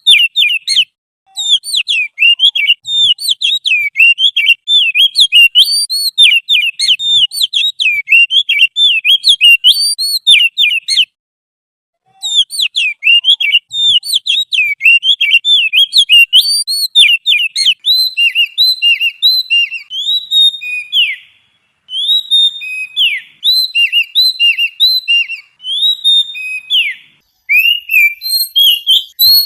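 Songbird song from a bird-tutoring (masteran) recording: fast, continuous chatter of short notes that bend up and down, breaking off briefly twice. About two-thirds of the way in it changes to a run of sharp, falling whistled notes.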